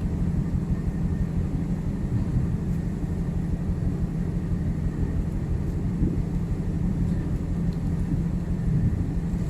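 Steady low drone of a ship's machinery, unchanging throughout.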